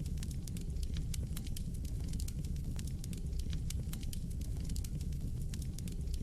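Fire burning in a fireplace: a steady low rumble of flames under frequent, irregular sharp crackles and pops.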